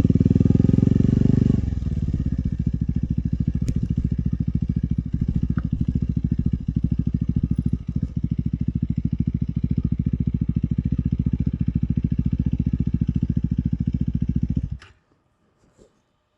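KTM 390 Adventure's single-cylinder engine running, louder for the first second and a half, then steady with even, rapid firing pulses at lower revs. The sound cuts off suddenly near the end.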